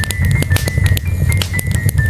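Wood fire in a fireplace crackling, with many sharp pops over a steady low rumble of burning logs. A faint, simple melody of held high notes plays along with it.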